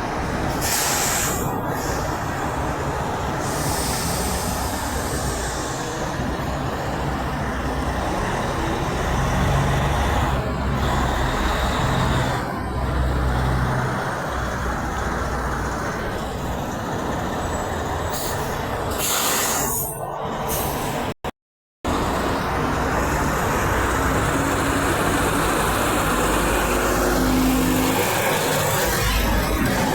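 Semi trucks running in heavy road traffic, a steady engine and tyre noise, with sharp air hisses twice: about a second in and again about two-thirds through, typical of truck air brakes. The sound cuts out completely for about half a second just after the second hiss.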